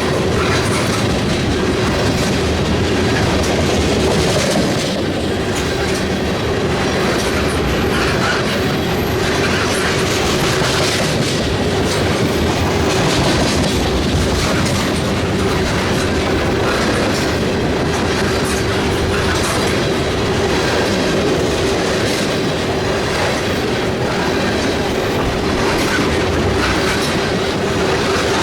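Freight train cars rolling past at close range, their wheels clacking over the rail joints with a steady ringing tone underneath.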